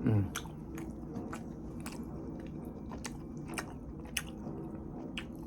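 A person chewing food close to the microphone, with many small wet mouth clicks and smacks. A short falling hum of voice comes right at the start.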